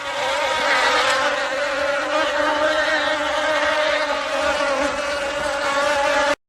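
A flying insect buzzing in one steady, unbroken drone that cuts off abruptly near the end.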